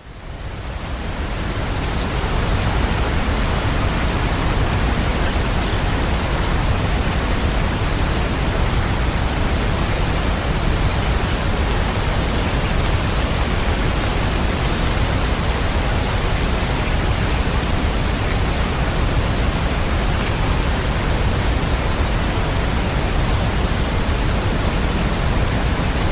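Steady, dense rain hiss, even and unbroken with no single drops standing out, fading in over the first two seconds.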